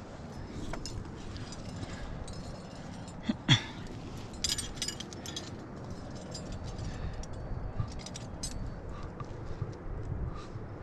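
Metal climbing gear clinking in short scattered clicks, over a steady low rumble of wind on the microphone. About three and a half seconds in comes the loudest sound: a short sharp sound that falls in pitch.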